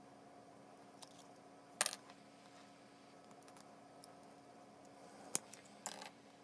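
A few short, light clicks and taps, as of small hard parts or tools being handled on a workbench: one a second in, a louder double click just under 2 s in, and a sharp one followed by a short rattle past 5 s, over a faint steady hum.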